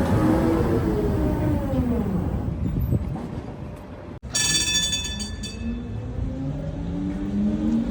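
Tatra tram traction motors whining down in pitch as the tram slows, then, after a cut about four seconds in, a brief high ringing and another tram's motors whining up in pitch as it pulls away.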